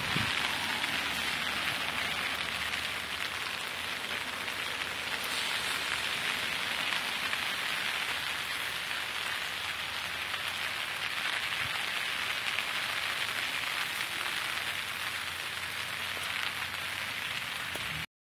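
Steady rain falling on garden foliage and gravel: an even hiss that holds throughout.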